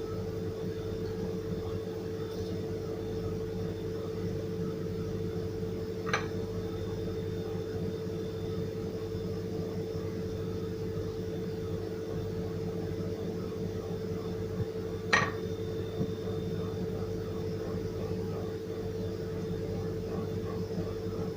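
Steady hum of a running kitchen appliance with a faint steady tone, broken by two light clinks of glass or utensils, about six and fifteen seconds in.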